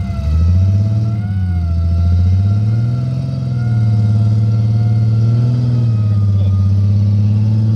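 Off-road SUV's engine running under load in a mud bog, revs rising and easing several times, with a steady high whine over it.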